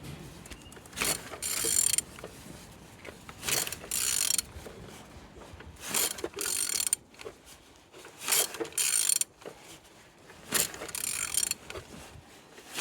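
Used car engine being turned over by hand, a short burst of mechanical clicking and rattling about every two and a half seconds, five times. It turns freely, a sign the engine is not seized.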